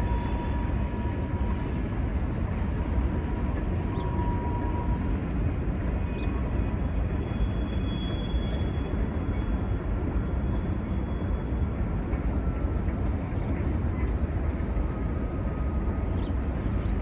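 Norfolk Southern manifest freight train rolling slowly across a stone arch bridge, heard from across the river as a steady low rumble, with faint thin high squeals coming and going and a few faint clicks.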